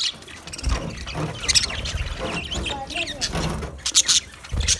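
Budgerigars chirping and chattering, with bursts of short sharp chirps about a second and a half in and again near the end, and soft warbling in between.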